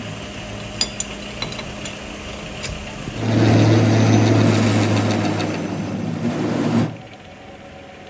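A steady low hum with a few light clicks, then a machine starts about three seconds in, runs loudly for about three and a half seconds and cuts off suddenly.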